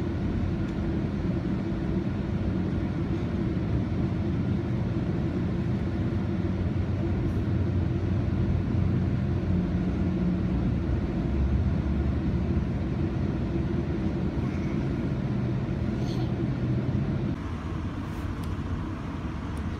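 Steady low rumble of a moving commuter train heard from inside the passenger car. About three-quarters of the way through it drops abruptly to a quieter rumble.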